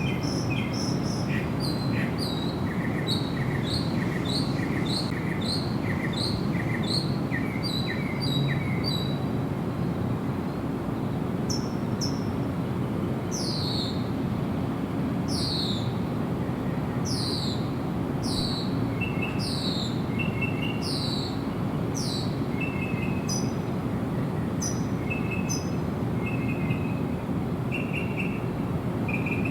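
Wild birds singing. First comes a quick run of repeated chirps, about two a second. Then a series of high, falling notes about one a second, and short clipped notes near the end, all over a steady low background noise.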